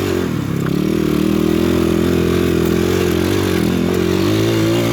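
PitPro 140cc pit bike's single-cylinder four-stroke engine running under throttle. The note dips about half a second in, then picks back up and rises and falls as the throttle is worked.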